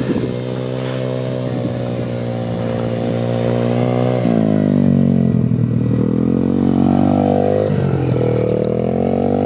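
Welsh Pit Bike 125cc single-cylinder four-stroke engine running under way. Its pitch holds steady, drops sharply about four seconds in, climbs, drops again near eight seconds and climbs again.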